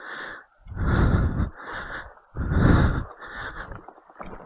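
A person breathing hard close to the microphone while riding: loud exhales alternating with softer inhales, a full breath about every second and a half.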